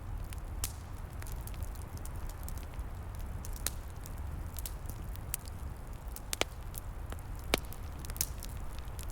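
Wood fire crackling, with sharp pops scattered irregularly over a steady low rumble; the loudest pop comes about two thirds of the way through.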